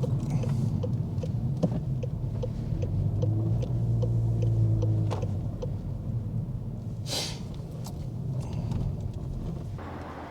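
Car engine and road noise heard from inside the cabin at low speed, a steady low hum that swells briefly around four seconds in. A light, regular ticking runs about two and a half times a second for the first five seconds, and a short rushing sound comes about seven seconds in.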